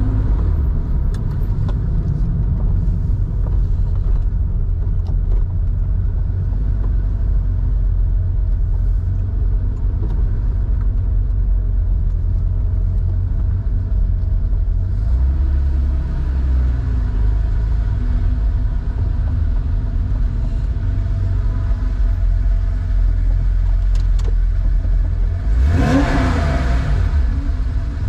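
Porsche 911 air-cooled 3.4-litre flat-six running through a Scart 2-in-1-out muffler while driving: a steady, deep exhaust drone. The engine note rises and falls about 15 seconds in, and there is a louder rev up and drop near the end.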